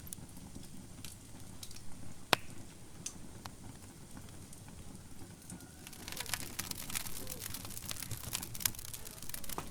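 Fire burning in a fireplace: a steady low rumble with scattered crackles and one sharp loud pop a little over two seconds in. The crackling grows much busier from about six seconds in.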